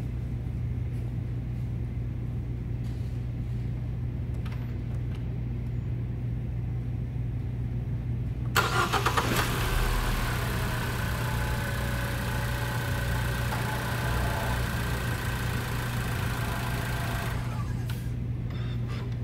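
2015 Ford Focus's 2.0-litre four-cylinder engine starting about eight seconds in, catching right away on fresh spark plugs and coil packs, then running smoothly with no miss before the sound drops away near the end. A steady low hum lies under it throughout.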